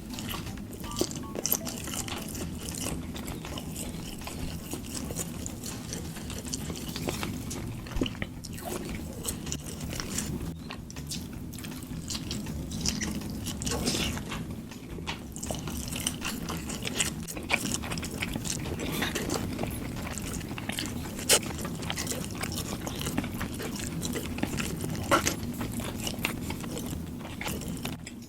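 Close-miked chewing and biting of food, with many sharp crunchy clicks scattered throughout; the loudest bites come about eight seconds in and again past the twenty-second mark.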